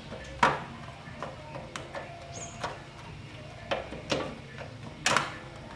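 Irregular light knocks and clicks, five or so louder ones scattered through, over a low steady hum: tools and parts being handled during repair work.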